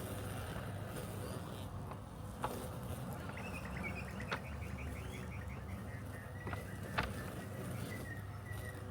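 Robotic lawn mower running with a steady low hum, with three short sharp clicks at intervals. A bird trills a rapid run of repeated high notes about a third of the way in.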